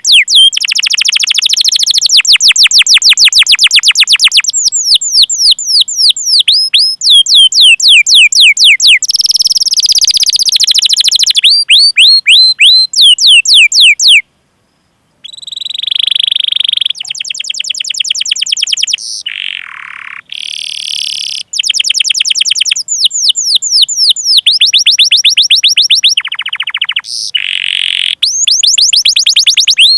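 Domestic canary singing. Runs of quick 'cuit cuit' notes, each falling in pitch, repeated several times a second, alternate with fast rolling trills ('ngerol'). The song stops for about a second near the middle.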